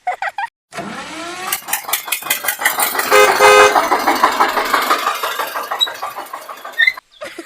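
A motor vehicle running with a rapid clatter, with two short horn honks about three seconds in.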